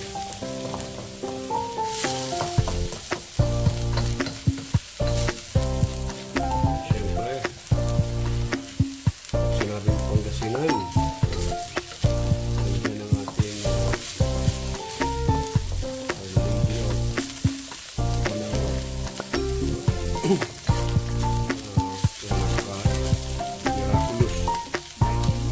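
Flaked milkfish and chopped onion sizzling in a steel wok while a wooden spatula stirs and scrapes against the metal, giving many sharp clicks and scrapes. Background music with a bass line plays throughout.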